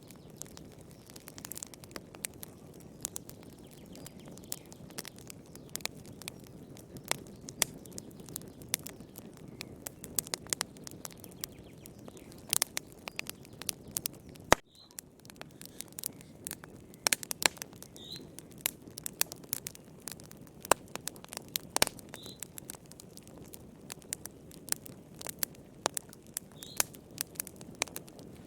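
Wood fire crackling in a fireplace: irregular sharp pops and snaps over a steady low hiss of burning. About halfway a loud pop comes just before the background hiss briefly drops out.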